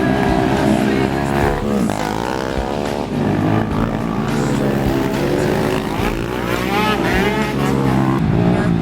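Racing ATV engines revving hard, their pitch rising and falling as the quads accelerate and shift, with a sharp rising sweep a little after the middle.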